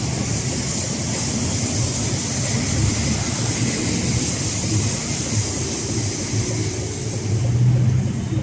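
Steady city-street traffic din with a BTS Skytrain train running on the elevated track overhead, its low rumble swelling near the end.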